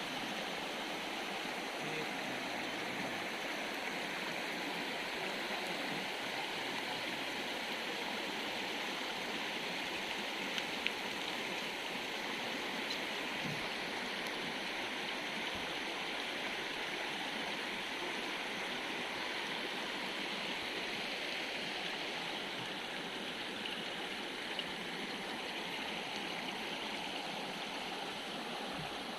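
A forest river or stream flowing over rocks, a steady rushing and babbling of water.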